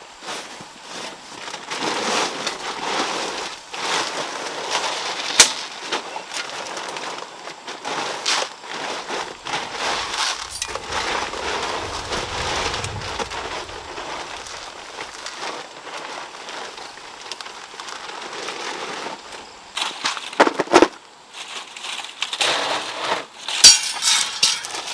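Firewood fire crackling and snapping irregularly, with a sharp pop about five seconds in and a cluster of louder pops near the end.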